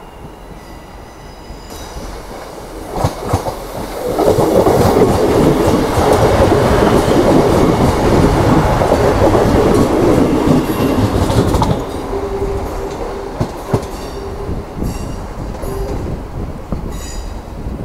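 A train running past, its wheels clattering over rail joints. The sound builds over the first few seconds, is loudest from about four to twelve seconds in, then dies down, with faint wheel squeals near the end.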